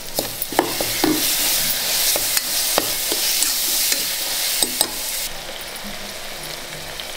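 Onions and ginger-garlic paste sizzling in oil in a metal pressure cooker, stirred with a spatula that scrapes and clicks against the pot. A little after five seconds the stirring stops and the frying settles to a quieter, steady sizzle.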